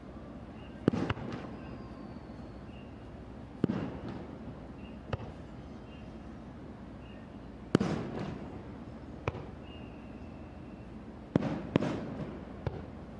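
Aerial firework shells bursting, a sharp boom every second or few, each trailing off in a rolling echo. Two bursts come close together near the end.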